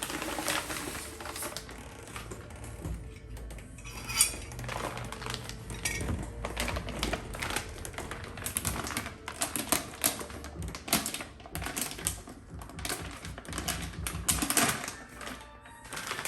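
Irregular clicks, taps and knocks of hands handling objects, with a rustle now and then.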